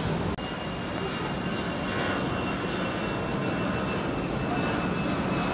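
Jet airliner's engines climbing out after takeoff: a steady rumble and rush with a faint high whine. The sound drops out for a moment about a third of a second in.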